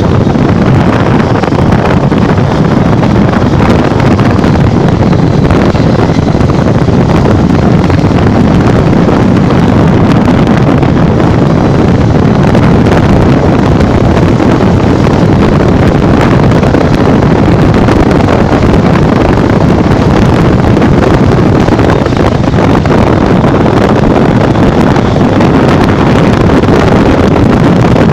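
Steady wind buffeting the microphone of a Honda NXR 150 Bros motorcycle riding at full throttle, with the bike's running and road noise mixed in beneath it.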